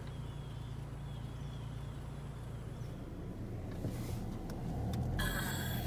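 Car engine running, a steady low hum heard from inside the cabin, with a short burst of noise near the end.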